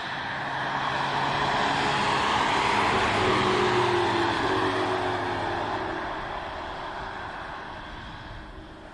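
Hyundai i30 N prototype's turbocharged four-cylinder engine passing at speed. The engine note builds to a peak a few seconds in, then drops in pitch and fades as the car goes away.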